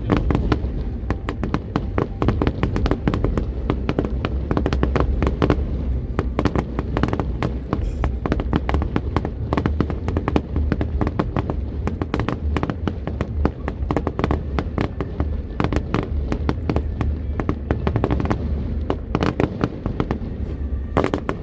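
Fireworks display firing a rapid, continuous barrage of bangs and crackles over a deep rumble.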